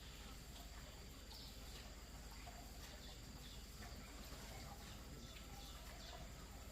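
Near silence: faint background noise with a steady low hum and a few faint, short high-pitched chirps.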